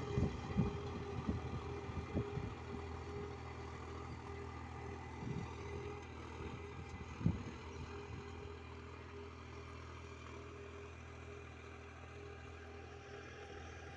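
Mahindra 275 DI tractor's three-cylinder diesel engine running steadily, slowly growing fainter, with a few short knocks, the sharpest about seven seconds in.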